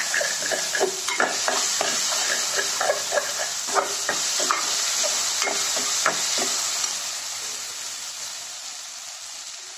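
Onions, tomatoes, coriander and mint leaves sizzling in hot oil in a pressure cooker while a metal ladle stirs and scrapes the pan with frequent knocks. The stirring thins out and the sizzle grows quieter over the last few seconds.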